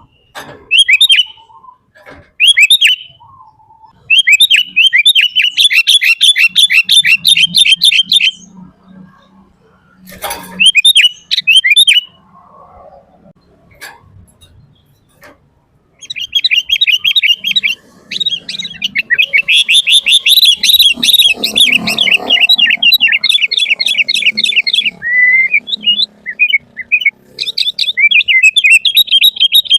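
Sooty-headed bulbul singing energetically: long runs of rapid, chattering high notes, with a few short separate calls in between.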